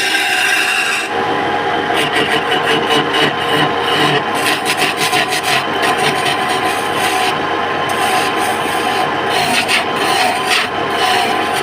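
Wood lathe running with a steady motor hum while a turning tool scrapes and cuts the spinning wood. From about a second in, the scraping comes as a rapid, uneven rasping.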